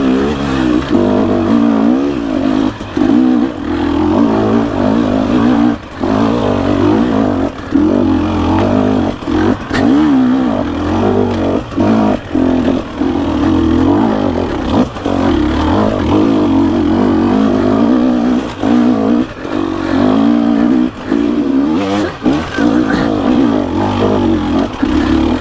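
Dirt bike engine revving hard and unevenly up a steep climb, the throttle cut and reopened again and again so the pitch keeps rising and falling, with a few brief drops and knocks along the way.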